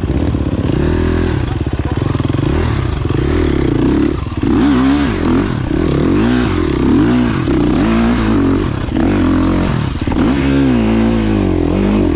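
Dirt bike engine revving up and down over and over as the throttle is worked, its pitch rising and falling about once a second, with clatter from the bike underneath.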